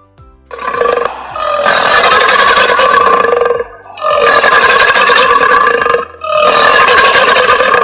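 Crocodile calling: three long, loud, harsh calls of about two seconds each, separated by short gaps.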